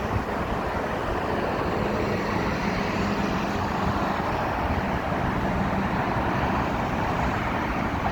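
Road traffic passing on a wet road: a steady hiss of tyres on the wet surface, with an engine hum for a few seconds in the middle.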